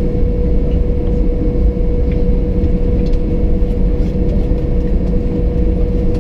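Cabin noise of an Airbus A320 on the ground just after landing: a steady low rumble with a constant humming tone running through it.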